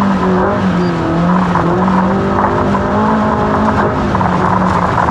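Off-road race car engine running hard, its revs rising and falling again and again as the car is driven over rough desert terrain.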